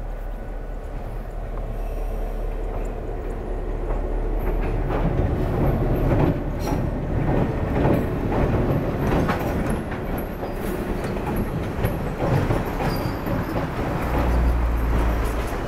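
Diesel excursion train led by an EMD GP10 locomotive approaching and crossing a short steel railroad bridge overhead. The sound swells from about four seconds in as the wheels clatter over the rail joints and bridge deck. Near the end the passenger coaches roll over with a heavy low rumble.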